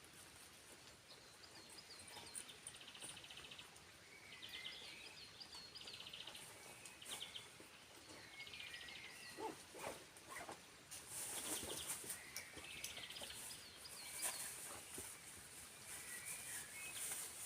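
A songbird singing repeated short phrases of fast trills and chirps, over a faint steady hiss. A few brief rustling knocks come near the middle.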